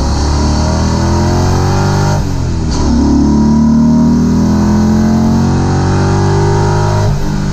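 Audi V8 engine of a Porsche 986 Boxster accelerating hard, heard from inside the cabin. The revs climb, drop at a gear change about two seconds in, climb steadily for several seconds, then drop at another shift near the end.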